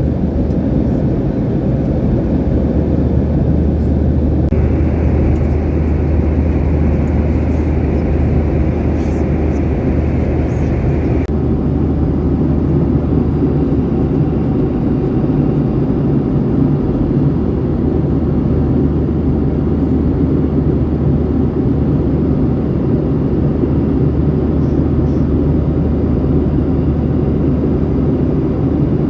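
Steady cabin noise of a jet airliner in flight: a constant low drone with rushing air. A higher hiss comes in about four seconds in and stops suddenly around eleven seconds.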